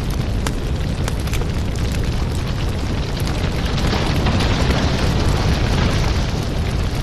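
Burning firewood crackling and popping over a steady rush of flame, the rush swelling a little about four seconds in.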